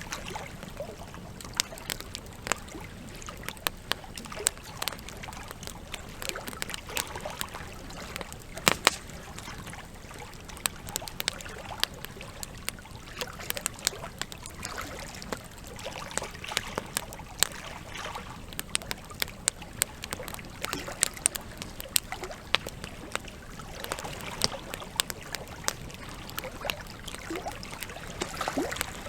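Wood logs burning in a campfire, crackling with irregular sharp pops, one louder snap about nine seconds in, over a steady trickle of running water.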